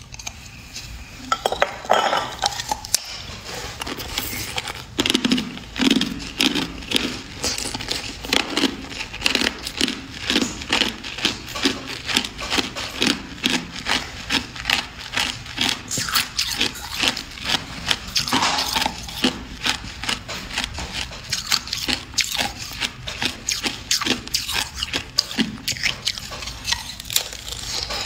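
Hard clear ice being bitten and chewed: many sharp crunches in quick succession, starting about a second and a half in.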